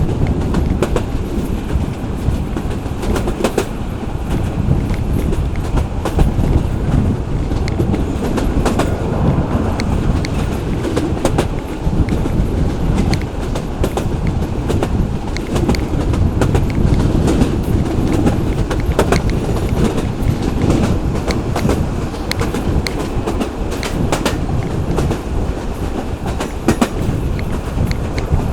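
Local passenger train running along the line: a steady low rumble of wheels and carriages with frequent sharp clacks of the wheels over rail joints.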